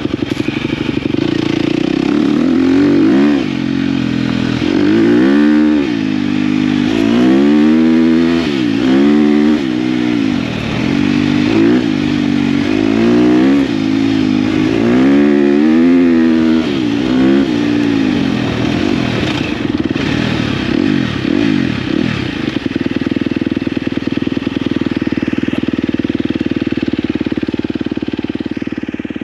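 KTM dirt bike engine revving up and down as it is ridden, its pitch rising and falling about every second and a half, then running at a steady speed until the sound stops abruptly near the end.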